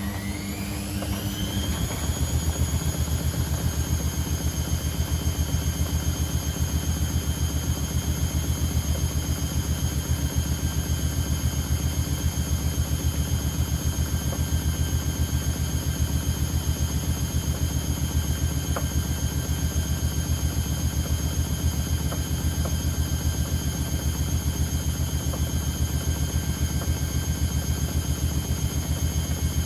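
Privileg Sensation 952 S top-loading washing machine spinning: the motor whine rises in pitch over the first couple of seconds as the drum comes up to speed, then holds steady as a high whine over a low, fast-pulsing hum.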